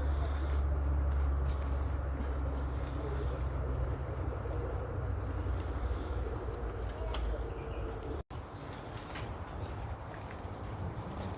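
Steady high-pitched drone of insects in tropical forest, over a low rumble, with a brief cut-out about eight seconds in.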